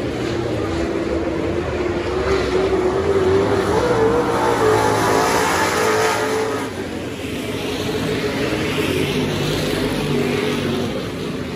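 Super stock race car engines running at speed, the engine note wavering with the throttle. It grows louder from about three seconds in to a peak, then drops off suddenly near seven seconds, as cars pass.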